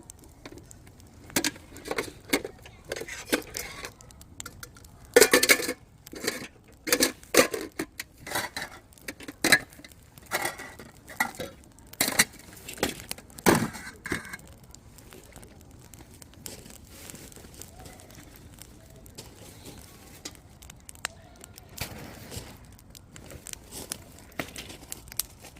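Firewood burning in a campfire, crackling with many sharp pops and cracks, dense in the first half and sparser and quieter after about fourteen seconds.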